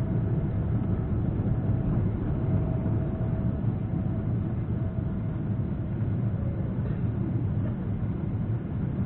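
Steady low rumble of a Boeing 777-300ER's cabin noise heard from inside the economy cabin, with a faint steady hum that fades out about four seconds in.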